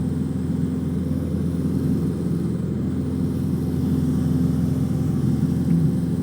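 Cessna 150's four-cylinder Continental O-200 engine and propeller running steadily at climb power, heard from inside the cockpit as an even drone.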